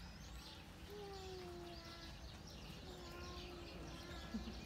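Small birds chirping and calling over and over, with a few longer held lower calls; a single short tap about four seconds in.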